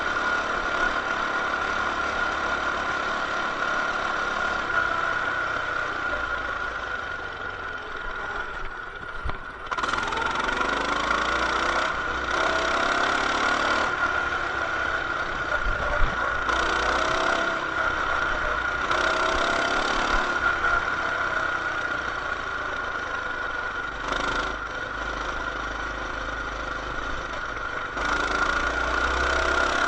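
Coleman BT200X mini bike's single-cylinder engine running while riding, its pitch rising and falling several times as the throttle is opened and eased off, with wind rumbling on the microphone.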